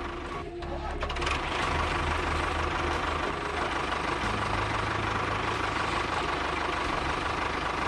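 Mini tractor running steadily along, an even engine-like sound with a faint steady whine.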